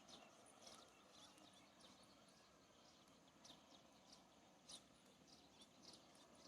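Faint, short, high chirps of small birds, scattered at irregular intervals, over a low steady outdoor background.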